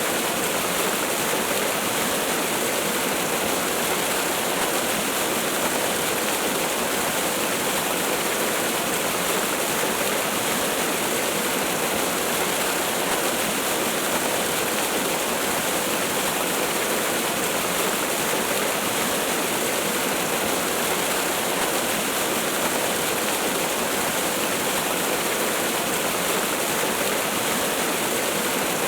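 Waterfall rushing, a steady, unchanging hiss of falling water with little deep rumble.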